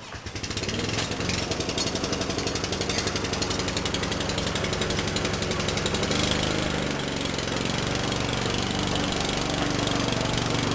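A small motor running steadily with a rapid, even chugging pulse; its pitch shifts a little about six seconds in.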